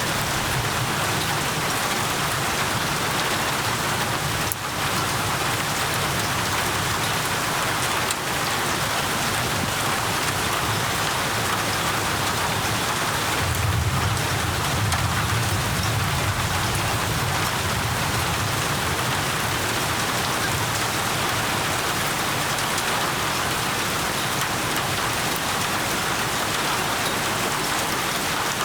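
Steady heavy rainfall, an even hiss of drops on surfaces, with a low rumble swelling briefly about halfway through.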